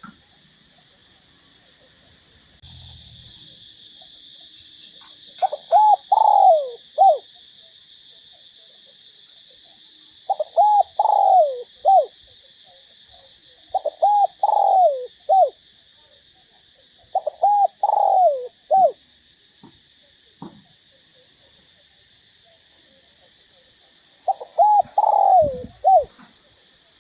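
Spotted dove (Streptopelia chinensis) cooing: five phrases of several coos each, a few seconds apart. A steady faint high-pitched tone runs behind from about three seconds in.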